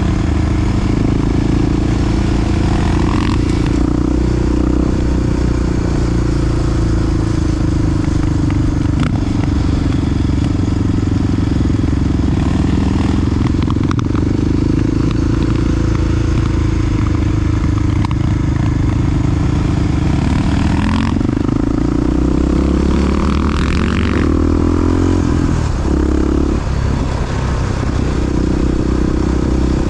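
Big single-cylinder four-stroke Honda XR dirt-bike engine running under way at a steady pace, then revs drop and climb again a few times about two-thirds of the way through, as with gear changes.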